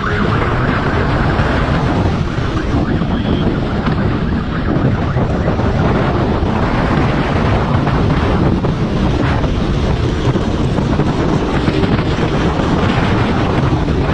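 Loud, steady wind rush buffeting the microphone of a motorcycle moving at speed.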